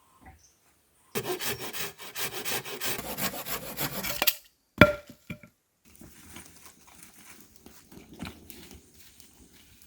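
Hand saw cutting through wood in quick, even back-and-forth strokes for about three seconds, then stopping. A single sharp knock follows, then quieter scattered handling sounds.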